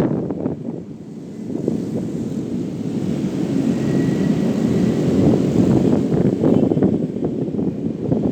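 Motorcycle engine running on the move, with wind rushing over the microphone; it drops briefly about a second in, then builds again.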